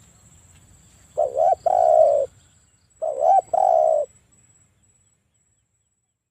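Spotted dove cooing: two calls about two seconds apart, each a quick wavering double note followed by one longer, low coo.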